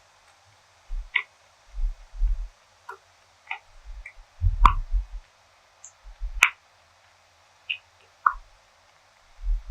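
Close-miked chewing and mouth sounds: soft low thuds with small wet clicks scattered irregularly, and two sharper clicks a little before the middle and about two thirds of the way through.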